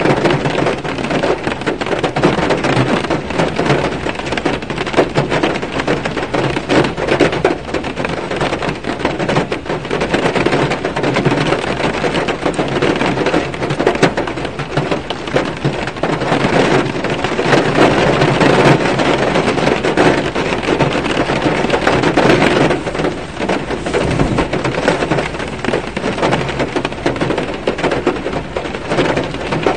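Rain falling on a car, heard from inside the cabin: a dense, even patter of many drops hitting the body and windshield.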